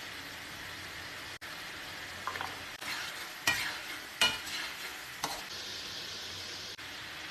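Chicken karahi frying with a steady sizzle, while a spatula stirs it and scrapes and clanks against the pan about five times in the middle of the stretch.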